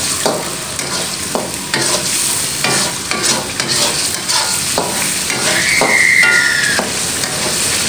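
Blended rawon spice paste frying in oil in a wok, sizzling steadily while a metal spatula stirs it and scrapes against the pan again and again. The paste is being fried until it is cooked and the oil separates out. One brief high squeal comes a little past halfway.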